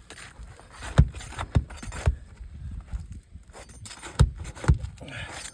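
Five sharp knocks on an asphalt shingle roof, three in quick succession and then two more a couple of seconds later, from prying and tapping work with a flat bar or steps on the shingles.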